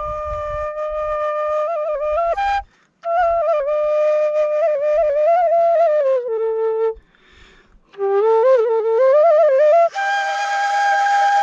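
Murali (Nepali bamboo flute) played solo: a slow melody of long held notes with small ornamental turns, pausing for breath about two and a half seconds in and again around seven seconds.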